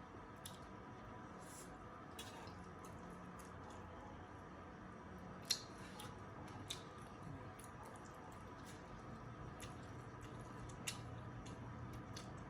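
Quiet eating sounds: scattered small clicks and soft squishes of a meal of buffalo meat in gravy with rice, with one sharper click about halfway through, over a faint steady room hum.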